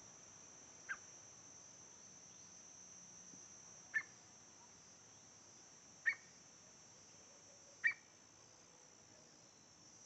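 Four short, sharp bird call notes, spaced about two seconds apart, over the steady high trill of crickets.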